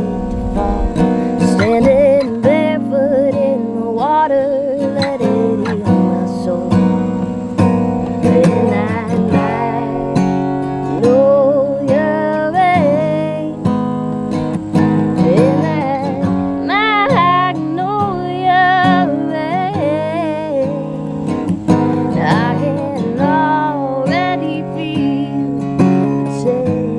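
Acoustic guitar strummed under a woman's singing voice, held notes sung with vibrato, in a live acoustic performance of a slow song.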